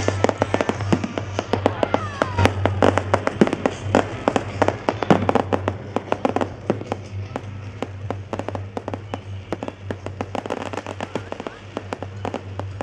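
Fireworks display: a rapid run of bangs and crackles, densest in the first half, with a falling whistle about two seconds in.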